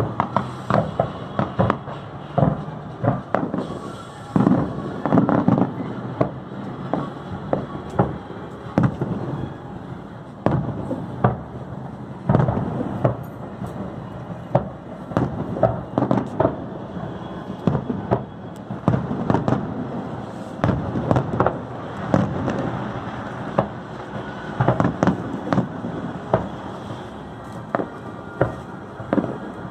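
Fireworks show with shells bursting in quick succession: many sharp bangs a second over a continuous rumble.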